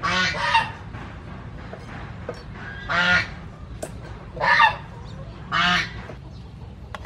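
A bird calling loudly four times, each call short (under half a second) with a strong pitched note, spaced a second or more apart.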